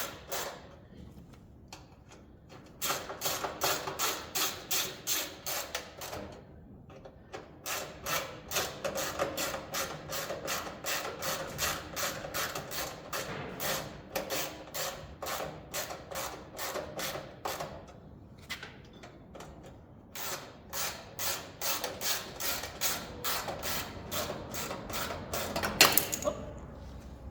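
A hand ratchet tool clicking in long runs of about five clicks a second, with short pauses between runs, as screws are driven to fasten a heater's control panel. One louder sharp click comes near the end.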